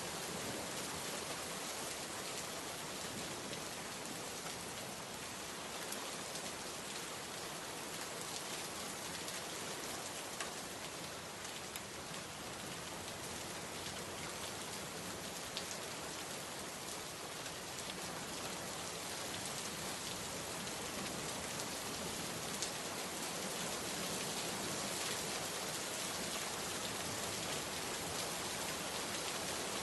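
Steady heavy rain falling on surfaces, a constant hiss with scattered sharper drop ticks.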